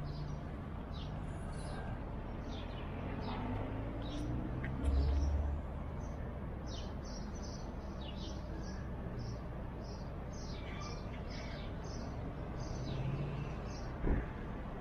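Birds chirping repeatedly in short, quick calls over a steady low background hum, with a brief low rumble about five seconds in.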